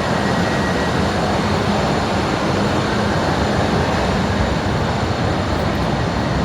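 Class 455 electric multiple unit running into the platform: a steady rumble of wheels on rail and running gear, with a faint steady whine, holding at one level throughout.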